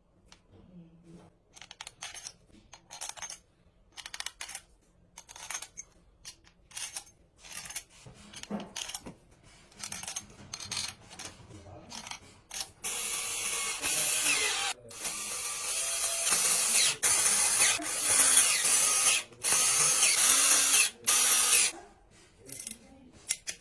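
Ratchet wrench clicking as bolts are turned on a Mercedes CDI 313 diesel engine being rebuilt: short separate runs of clicks at first, then a long, louder run of fast ratcheting with brief pauses in the second half.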